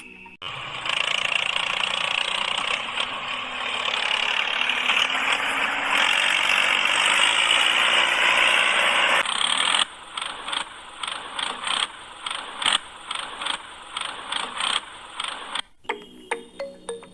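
A small machine runs with a steady whirring hiss for about nine seconds, then stops. A run of quick, irregular ratchet-like clicks and taps follows.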